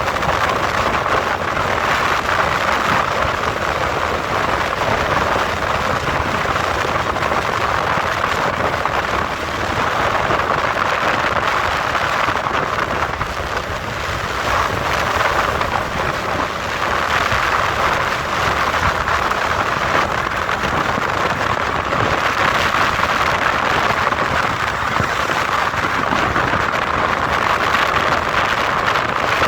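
Steady rushing noise of wind and road from a motorcycle being ridden, with no distinct engine note standing out.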